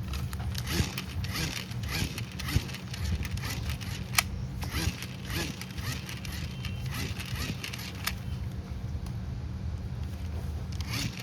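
Hand-operated manual cube mini fan working: repeated short rattling whirs of its gears and blades, about two a second, thinning out in the second half, over a steady low hum. A sharp click comes about four seconds in.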